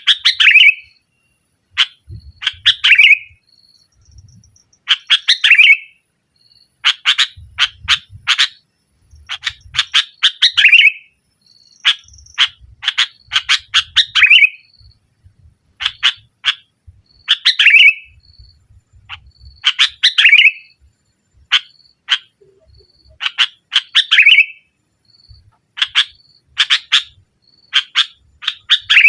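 Sooty-headed bulbul (kutilang) singing: short, loud, rapid chattering phrases repeated every two to three seconds.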